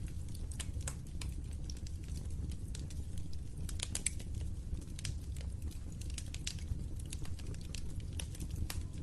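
Wood fire crackling: a steady low rumble of flames, with frequent irregular sharp pops and snaps from the burning wood.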